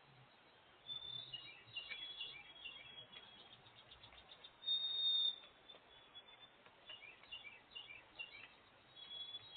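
Small songbirds chirping: runs of short, high, falling chirps, a quick trill, and a louder held high whistle about halfway through.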